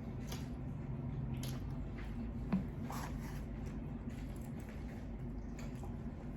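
Wet chewing of lo mein noodles close to the microphone, soft squishy mouth sounds with a sharp click about two and a half seconds in, over a steady low hum.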